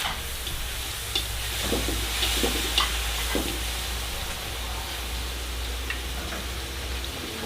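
Food sizzling in a pan while it is stirred, with a few scattered clicks and scrapes of a utensil against the pan over a steady low hum.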